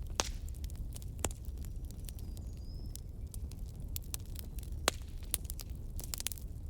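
Wood fire crackling: scattered sharp pops and snaps over a steady low rumble of the flames, with louder snaps just after the start, at about a second and a quarter, and near five seconds. A faint, brief high whistle comes about halfway through.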